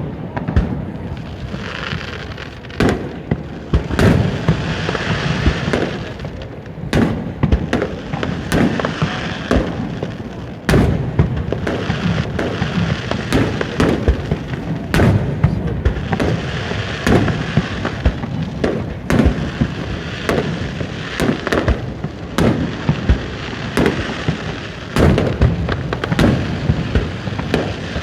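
Fireworks display: aerial shells bursting one after another, a sharp boom every second or so, with crackling in between.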